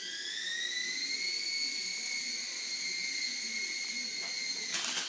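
High-pitched electric motor whine of an Air Hogs toy remote-control helicopter, rising as the rotors spin up over the first second and then holding steady. A brief clatter comes near the end.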